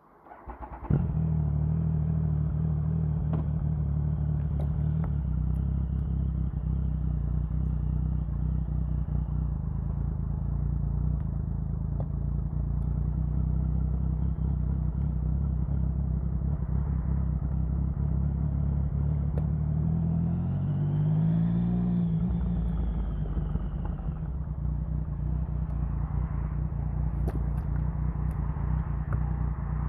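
Triumph Sprint 1050's three-cylinder engine starting about a second in and then idling steadily, with one throttle blip, rising and falling in pitch, about two-thirds of the way through.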